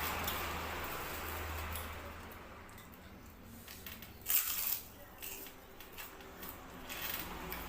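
Eating sounds at a meal: small clicks and clinks of utensils and dishes, with a sharper clatter about four seconds in.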